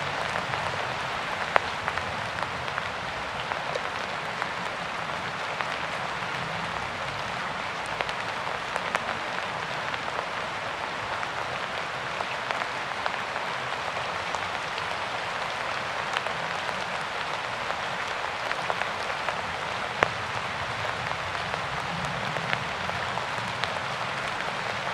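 Steady rain falling, a dense even patter with scattered louder individual drops ticking.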